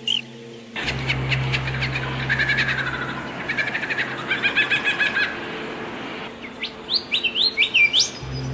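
Small songbirds chirping and twittering: fast trills of short notes for the first few seconds, then a run of quick upward-sweeping chirps near the end, over a steady low hum and background hiss.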